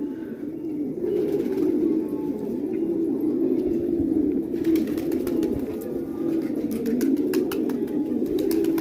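Domestic pigeons cooing, several birds overlapping in a continuous wavering low coo, with faint light clicks in the second half.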